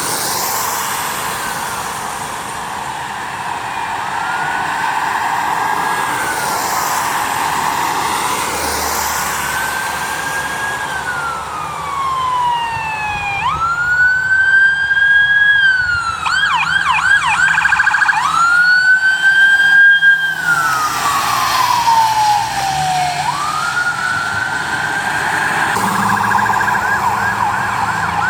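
Emergency vehicle's electronic siren sounding a slow rising-and-falling wail, switching to a fast yelp about two-thirds of the way through and again near the end. It is loudest in the middle.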